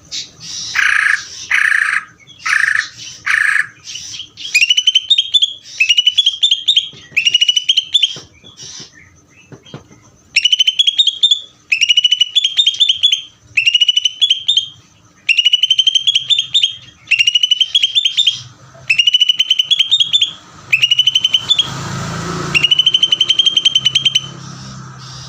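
Cucak ijo (green leafbird) singing nonstop: a few harsh, buzzy calls first, then one phrase repeated over and over, each rising and ending in a fast trill, with short gaps between. A brief rushing noise about 22 seconds in.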